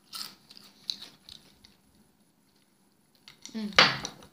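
Close-up crunching of Flamin' Hot Cheetos being bitten and chewed, a few crisp crunches in the first second and a half, then quiet, then a short louder noise near the end.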